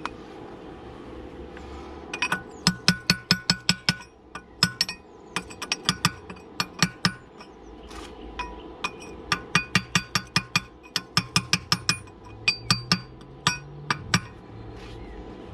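A hammer striking steel: quick runs of sharp, ringing metallic taps, about five or six a second, with short pauses between the runs.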